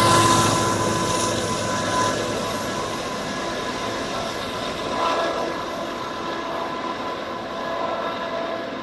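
BNSF double-stack freight train rolling past on the rails: a steady rumble of wheels with a thin steady ringing tone, slowly fading.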